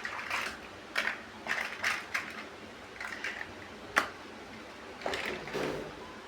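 Plastic LEGO-type building bricks being handled and pressed together: irregular sharp clicks, the loudest about four seconds in, with short rustling and scraping of pieces in between.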